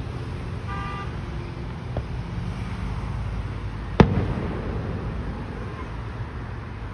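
Fireworks: one sharp, loud bang about four seconds in that rumbles away after it, and a fainter pop about two seconds in, over a steady low background rumble.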